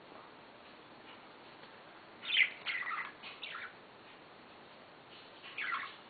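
Pet budgerigars chirping: a burst of short chirps about two seconds in that lasts over a second, then a shorter burst near the end.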